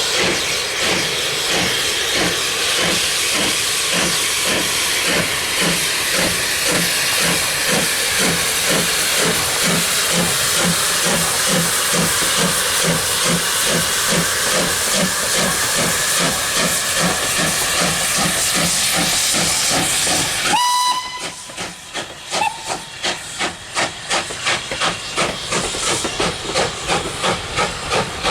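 Steam locomotive working, a loud steady hiss of steam over regular exhaust beats, about two to three a second. About 20 seconds in, a short whistle sounds and the hiss cuts off suddenly, leaving the exhaust beats going on.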